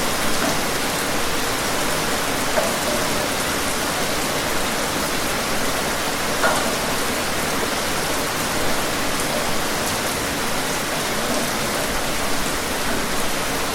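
Steady rain falling, an even hiss with a few louder single drops, the clearest about six and a half seconds in.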